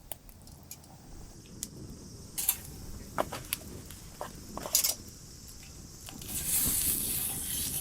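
Wood campfire crackling with scattered sharp pops and knocks; about six seconds in, a louder steady hiss builds.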